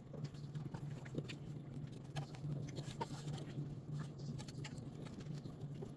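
Light, scattered clicks and taps of parts and wiring being handled, over a steady low hum.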